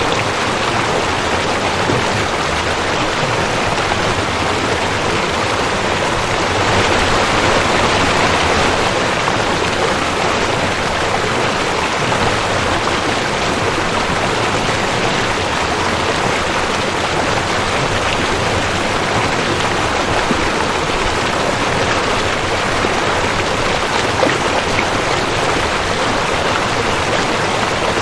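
Rushing creek: water running over rocks with a steady, loud rush that swells slightly for a couple of seconds about a quarter of the way through.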